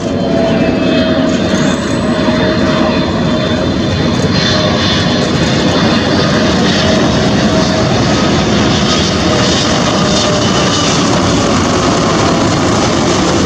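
Jet engines of a Boeing 777F freighter, its GE90 turbofans running loud and steady: a broad rush with a faint wavering whine.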